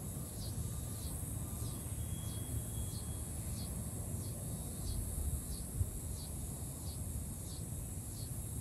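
Outdoor wind rumbling on the microphone, with a short high chirp repeating about twice a second throughout.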